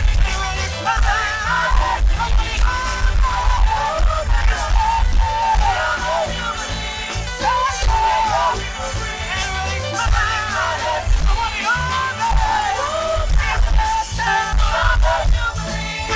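Chorale singing with a live band, with heavy bass and drums under the voices.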